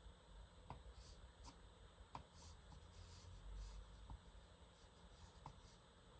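Faint scratching of a pen moving across paper in short sketching strokes, with a few light ticks of the pen tip.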